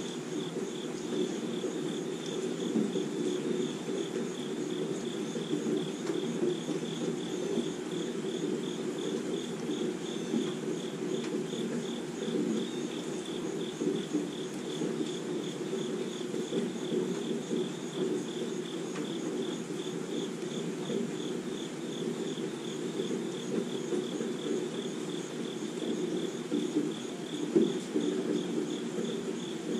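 Steady rain pattering on trees and lawn, with an insect chirping in a rapid, even pulse, high-pitched and cricket-like, behind it.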